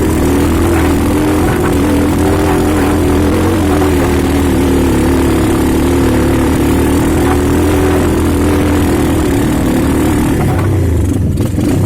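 Motorcycle engine running steadily under way, its pitch wavering only slightly, with a brief drop about eleven seconds in.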